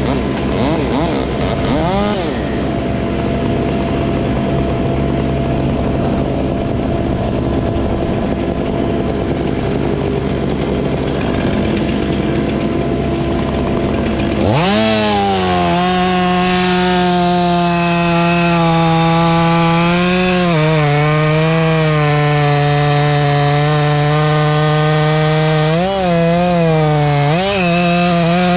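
A chainsaw engine running loud: engine noise at first, then about halfway through a sharp rev up to full throttle. It holds a steady high whine, and the pitch sags and recovers a few times near the end as it loads in the cut.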